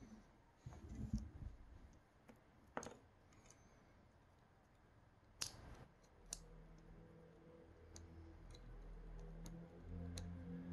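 Faint scattered clicks and taps of small extruder parts being handled and fitted together, with one sharper click about halfway through. After it a steady low hum starts and slowly grows louder toward the end.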